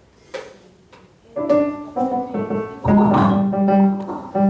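Keyboard starting to play sustained chords about a second and a half in, fuller and lower from about three seconds on. A short noisy thump comes just before, near the start.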